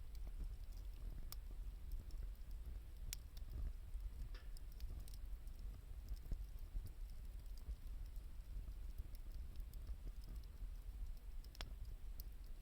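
Wood campfire crackling, with a few scattered sharp pops over a low steady rumble.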